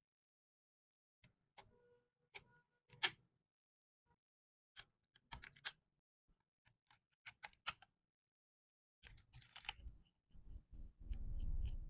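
Scattered sharp clicks and light knocks, in ones and small clusters, as parts and tools are handled while a hammer drill is repaired. Near the end a short, louder low rumble with a buzzing tone.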